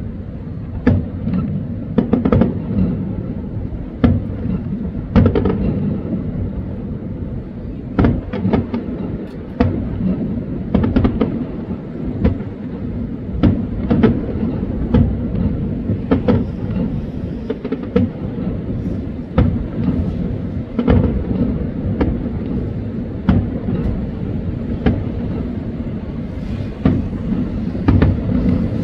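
Aerial fireworks shells bursting in an ongoing display: irregular sharp bangs, about one or two a second, over a continuous low rumble.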